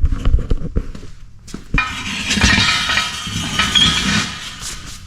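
Steel parts of a pipe bender clanking, a few sharp knocks and then a couple of seconds of rattling, scraping metal with some ringing, as its bent frame is worked on.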